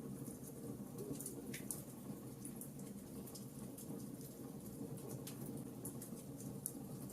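Burning wood in a campfire crackling, with irregular sharp pops and ticks over a low, steady rumble.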